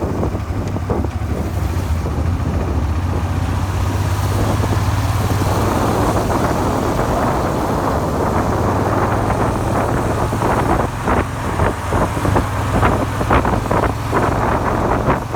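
Suzuki SV400's V-twin engine running steadily while riding, with wind buffeting the microphone, the gusts getting choppier in the second half.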